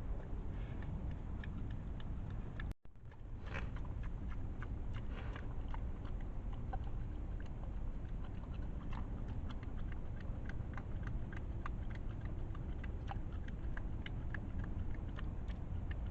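Wild boar chewing and crunching feed: many small, irregular crunches over a steady low rumble. The sound cuts out briefly about three seconds in.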